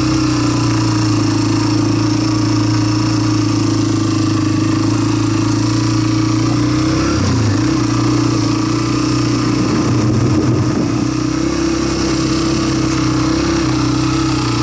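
Single-cylinder dirt bike engine running steadily under way as it is ridden, with a brief drop and recovery in pitch about seven seconds in.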